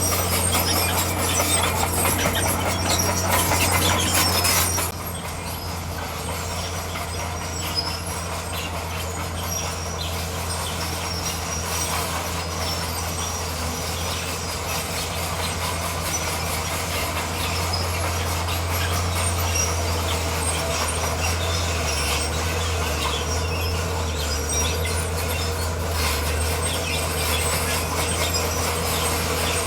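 Crawler bulldozer at work: its diesel engine runs steadily under the clatter of its steel tracks. It is louder for about the first five seconds, then drops a little and holds steady.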